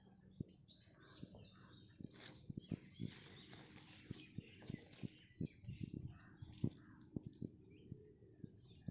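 Small birds chirping, short high tweets repeating about twice a second, over scattered soft knocks and taps.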